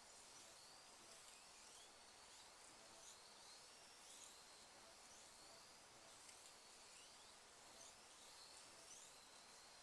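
Faint whines of 1/32 scale slot car electric motors rising and falling in pitch, about once a second or so, over near-silent hiss.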